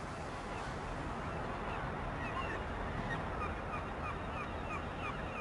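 Many short bird chirps repeating over a steady rushing background noise.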